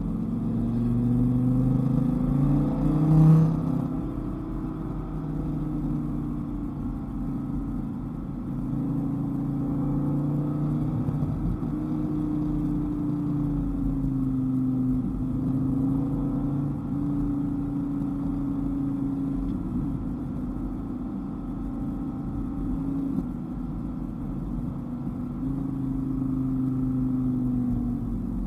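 Dodge Viper GTS's V10 engine running at moderate revs, its note rising and falling gently with the throttle, with a brief louder rise in revs about three seconds in.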